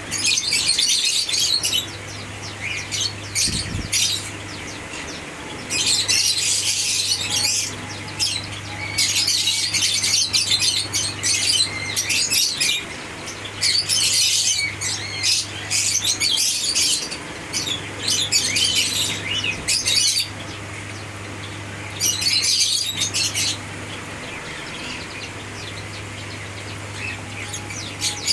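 Lovebirds chattering in stretches of rapid, high-pitched chirps and squawks, a second to a few seconds at a time with short pauses between. A steady low hum runs underneath.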